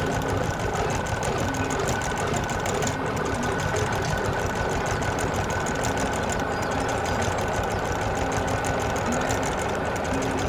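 Engine sound effect running steadily with a fast, even chatter, starting just before and cutting off just after.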